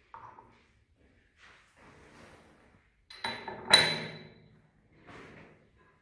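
Short handling noises: a few brief rustles and knocks, then a sharp metallic clink with a short ring about three and a half seconds in, the loudest sound.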